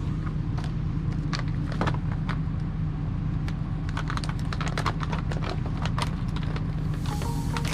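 Light clicks and knocks at irregular moments as camp cooking gear is handled, over a steady low hum.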